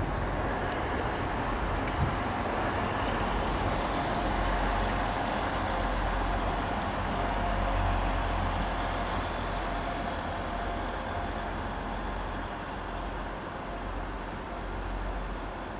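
Transport for Wales passenger train running past along the platform: a steady rumble of the train's running, with a faint steady whine for a few seconds in the middle.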